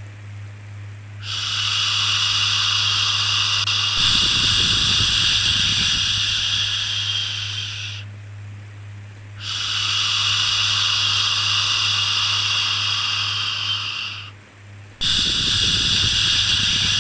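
Long drawn-out 'shhh' shushing sounds of the kind used to soothe a baby. Three shushes of about five to six seconds each come with short breaks between, over a steady low hum.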